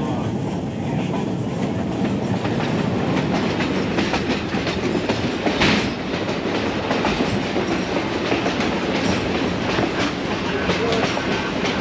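Moving passenger train: a steady rumble from the rail car with wheels clicking over the rail joints, and one louder clatter about halfway through.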